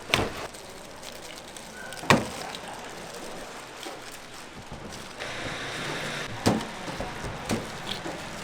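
Kitchen work: a few sharp knocks and clatters, with a brief hiss about five seconds in.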